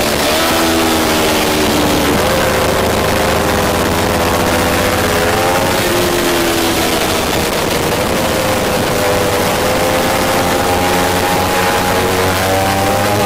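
Kawasaki Ninja 300 parallel-twin engine at racing speed, heard from on board. Its pitch climbs and drops several times as the rider works the throttle and gears through the corners, over a steady rush of wind.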